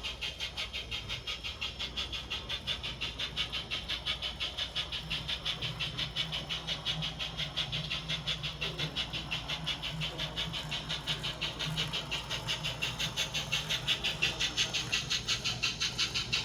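Model narrow-gauge steam locomotive running on the layout with a steady, rapid rhythmic chuff, about five beats a second. A low steady hum joins in through the middle.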